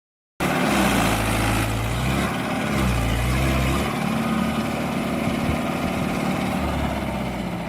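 Tractor diesel engine running, its speed stepping up and down several times.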